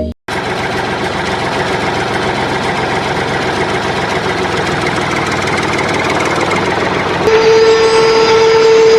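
A small motor running with a steady, dense buzz; about seven seconds in, a steady whine comes in on top and the sound gets louder.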